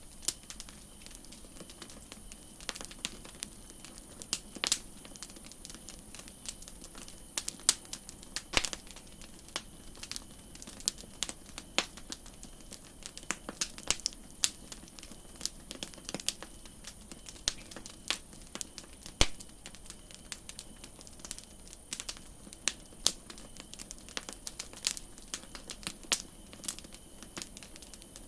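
Wood campfire crackling: irregular sharp pops and snaps, some louder than others, over a steady faint hiss.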